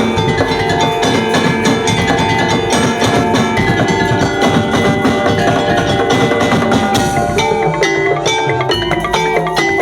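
Ensemble music of struck percussion: ringing pitched metal and wooden tones over a fast, dense beat.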